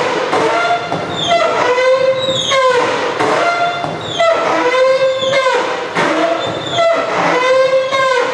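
Roll-up garage door squealing loudly as it is worked, a high pitched squeal repeating about once a second. The owner blames the noise on the rusty spring inside the door, and it keeps on squealing despite a coat of rust penetrant.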